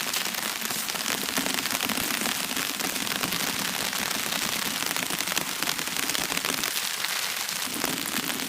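Steady rain falling, a dense crackling patter of many drops.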